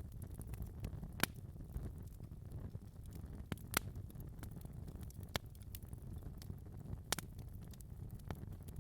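Wood fire crackling in a fireplace: irregular sharp pops and snaps over a steady low rush of burning, with the loudest pops about a second in, near four seconds and about seven seconds in.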